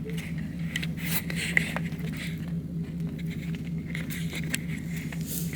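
A vehicle's engine running steadily, with scattered short scrapes and crackles over it.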